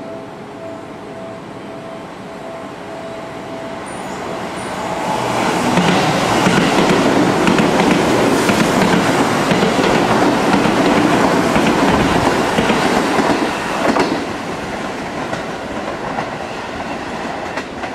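Seibu 10000 series Red Arrow electric limited express train running through a station at speed: the rumble of wheels on rails builds from about four seconds in and stays loud for about eight seconds as the train passes, then drops off sharply near the end.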